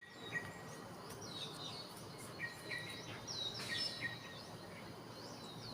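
Birds calling: repeated short chirps and sweeping whistled notes, several in a row, over a steady hiss of background noise.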